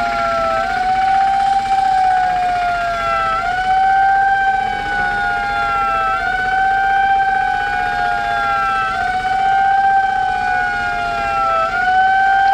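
Emergency vehicle siren wailing: a held tone that dips and climbs back up about every three seconds, repeating throughout.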